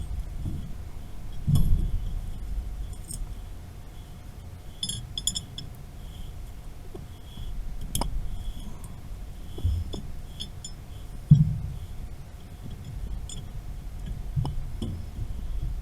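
Scattered metal clinks and knocks of tools and pipe fittings being handled, with a few heavier thumps, the loudest about eleven seconds in, over a faint steady hum.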